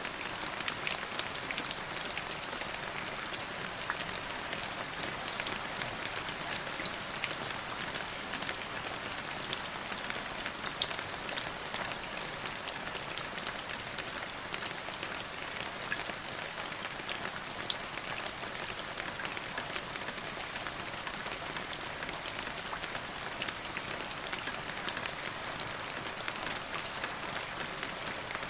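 Steady rain falling on a surface: a constant patter made of many separate drops ticking sharply, a few of them louder than the rest.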